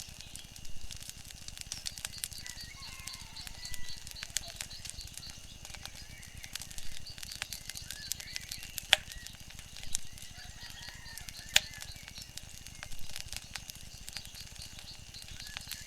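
Wood fire crackling with many small sharp pops and two louder ones, near the middle and about two-thirds of the way in, over a soft swell that comes back about every three seconds, with faint chirping calls.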